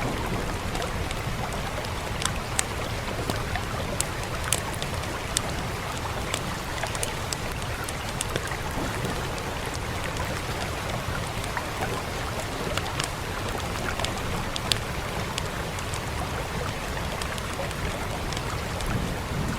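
Steady rain with a crackling wood fire: sharp pops and snaps scattered irregularly over the constant hiss of the rain and a low rumble.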